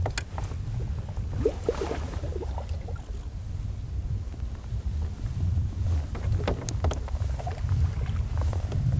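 Wind buffeting the camera microphone as a steady low rumble, with scattered clicks and knocks from the fishing rod, net and kayak being handled.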